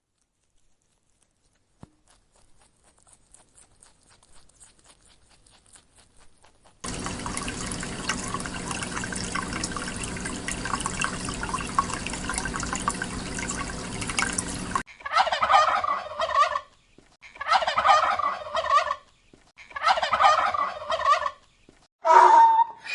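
About eight seconds of dense, steady noise with a low hum, then a farm animal calling three times, each call about a second and a half long, with a fourth call starting near the end.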